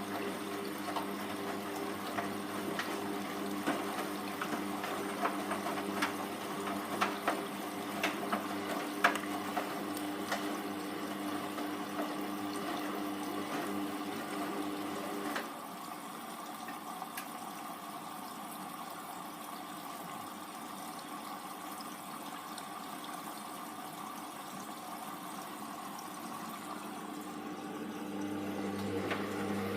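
Hoover Vision Tech washing machine mid-wash: a steady motor hum with light clicks and knocks from the drum, cutting out about halfway through, leaving a softer watery hiss, before the hum starts again near the end.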